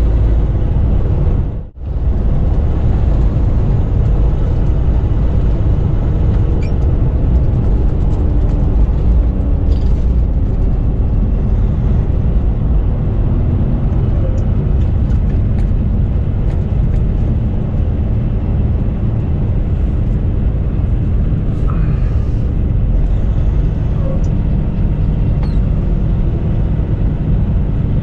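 Semi truck driving at highway speed: a steady, loud low rumble of engine and road noise, with a brief drop in the sound just under two seconds in.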